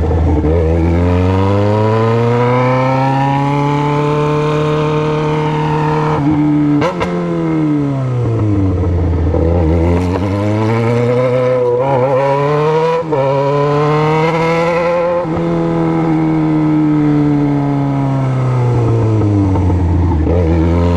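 Yamaha XJ6's 600 cc inline-four through a 4-into-1 straight-pipe exhaust, heard from the bike while riding. The engine note climbs, holds, then falls away about three times as the rider accelerates and slows.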